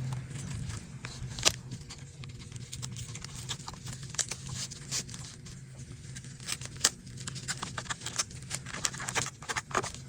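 Irregular small clicks and crackles of cracked iPad screen glass and its adhesive being pried and peeled away from the frame, over a faint steady low hum.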